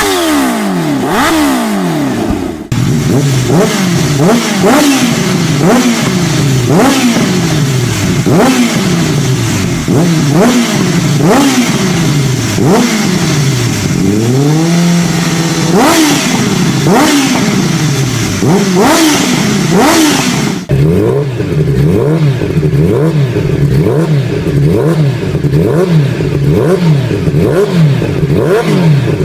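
Kawasaki Ninja H2 supercharged inline-four revved hard in quick, repeated throttle blips, its pitch rising and falling about once a second, through aftermarket exhausts: an Akrapovic briefly, then a Brocks Performance system, then a Trick Star system from about 20 seconds in. Around halfway through one rev is held steady for a moment before dropping.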